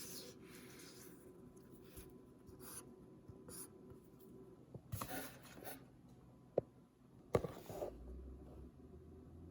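Paper packaging being handled by hand: soft rustling and scratching of paper, with two sharp little taps about two thirds of the way through.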